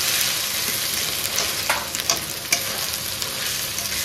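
Onions and ginger-garlic paste sizzling steadily in hot oil in a kadhai, stirred with a spoon that scrapes and knocks against the pan a few times.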